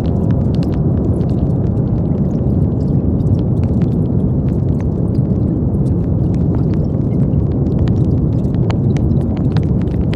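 Brown noise: a steady, deep hiss weighted toward the low end, unchanging throughout, with faint scattered clicks in the treble.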